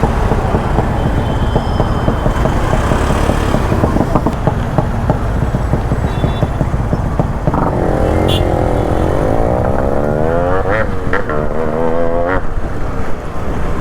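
Modified two-stroke motorcycle exhaust running with rapid, uneven low pulses. From about halfway it is revved several times, its pitch climbing and falling with each blip of the throttle.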